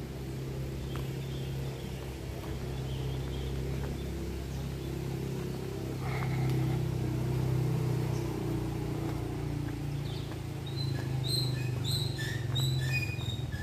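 Birds chirping in short, repeated high calls that crowd together from about eleven seconds in, over a steady low hum.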